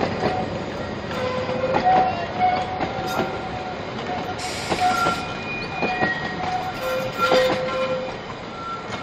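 Narrow-gauge train coaches rolling past, the wheels clicking over rail joints, with short squeals from the wheels at several different pitches coming and going throughout.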